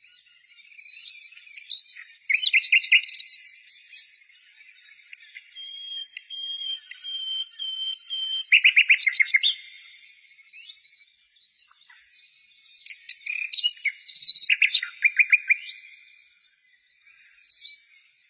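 Birds singing, with a burst of fast, repeated chirps about every six seconds and a thin, steady whistled note in between.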